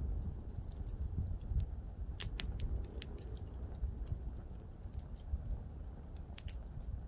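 Campfire crackling: burning wood snapping with scattered sharp pops, several close together, over a steady low rumble.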